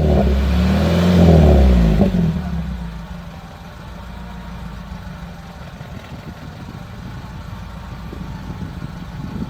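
Maruti Gypsy's engine being revved, its pitch swinging up and down. About two seconds in it drops back to a steady, quieter idle.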